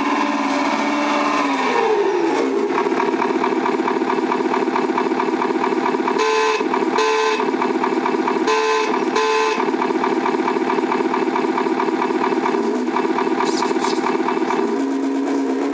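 Sampled diesel truck engine sound from an RC truck's electronic sound module, played through a small speaker: it climbs in pitch about two seconds in, holds a steady rumble, and settles back down near the end. Two double blasts of the simulated air horn sound in the middle.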